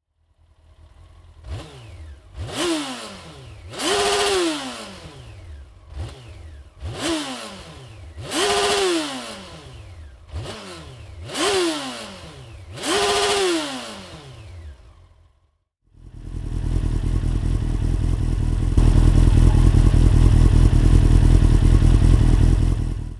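Honda CBR 954RR Fireblade inline-four revved through a Dominator aftermarket exhaust. It goes in three pairs, a quick blip and then a longer rev held briefly at the top, each falling back to idle. After a short gap comes a loud steady roar for about seven seconds, louder partway through, that cuts off near the end.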